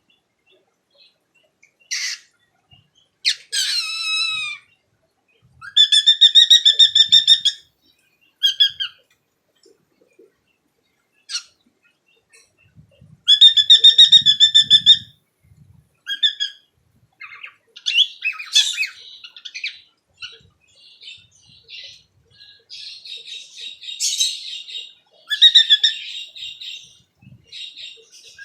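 Cockatiel calling: sharp single chirps and two longer pulsed calls in the first half, then a run of quick chattering chirps in the second half.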